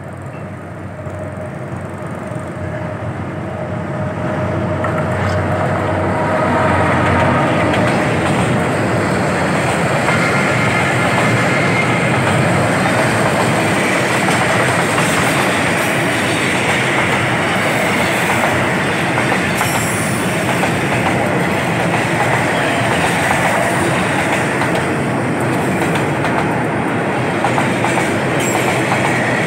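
A long freight train of boxcars and container flatcars passing close by, its wagon wheels clattering over the rails. The sound grows louder over the first several seconds, then holds as a steady, loud rumble and clatter.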